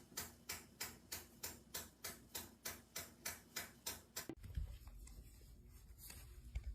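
Regular ticking, about three sharp clicks a second, which stops abruptly about four seconds in, leaving a faint low rumble.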